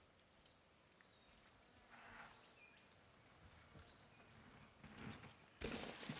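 Quiet woodland ambience with a few faint, short, high bird chirps. Near the end a sudden loud crackling hiss starts.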